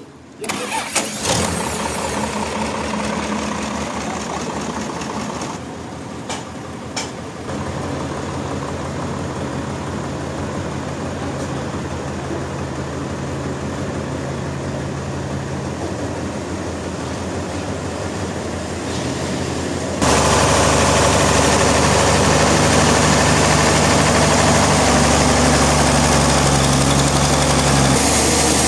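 An engine running steadily with a low hum. About twenty seconds in it turns abruptly louder and noisier.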